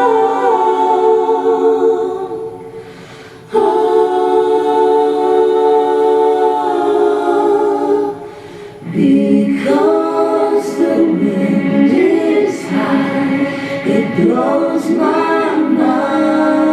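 A cappella choir singing long held chords. The sound fades away, then a new chord starts suddenly about three and a half seconds in. After a short dip around eight seconds, the voices move in winding, wavering lines.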